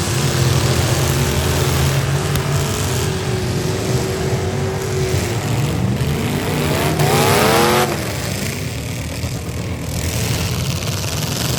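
V8 demolition derby car engines running, with one revved hard, rising sharply in pitch about seven seconds in and dropping off about a second later.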